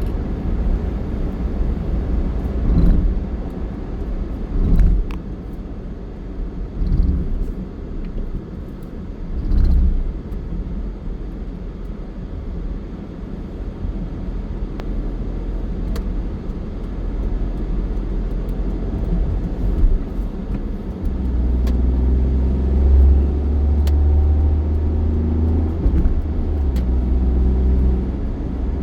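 Motor vehicle running on a road: a steady low rumble with a few brief louder swells, growing heavier and deeper about twenty seconds in.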